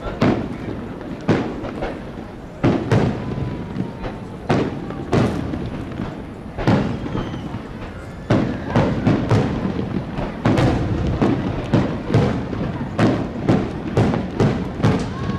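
Aerial fireworks shells bursting: a series of sharp booms, each with an echoing tail. The booms come a second or two apart at first, then faster, two or three a second, in the second half.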